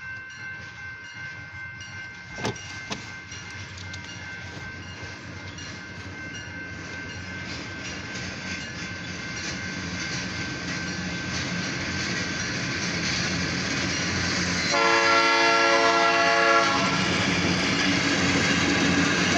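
Alco diesel locomotive hauling a passenger train, approaching and growing steadily louder. It sounds its horn once about fifteen seconds in for about two seconds, then starts another blast at the very end.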